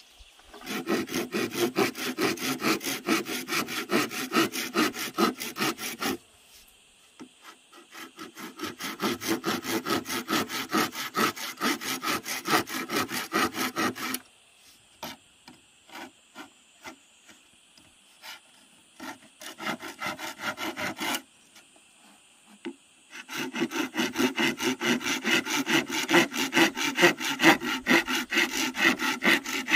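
Hand saw cutting wood in quick back-and-forth strokes, in several bouts of a few seconds each with short pauses between, a slower stretch of scattered strokes in the middle.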